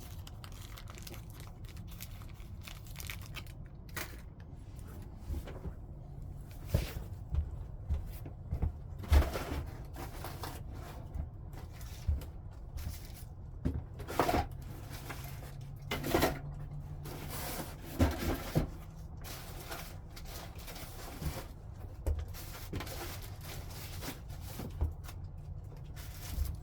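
Flintknapping stone: irregular sharp clicks and knocks as flakes are taken off, mixed with a few short scraping strokes against the stone's edge.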